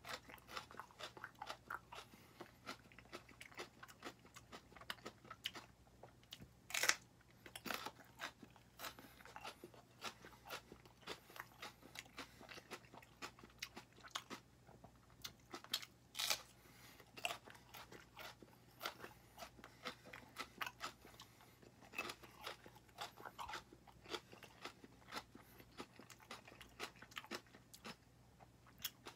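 Close-up chewing of raw serrano peppers: a steady run of wet, crisp crunches as the pepper flesh is chewed, with a few louder crunches where a fresh bite is taken, about 7 and 16 seconds in.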